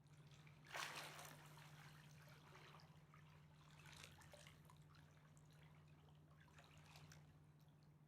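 Faint Mississippi River water lapping and splashing against the shore, with a soft splash about a second in and smaller ones near the middle and the end, over a steady low hum.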